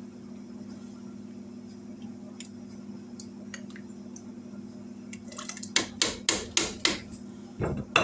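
A ladle knocking against a cooking pot as chicken and dumplings are dished up: about five quick sharp knocks past the middle, then a duller thump. A steady low hum runs underneath.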